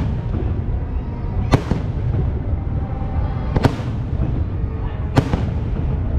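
Fireworks exploding overhead: three sharp bangs about a second and a half to two seconds apart, over a continuous low rumble of bursts.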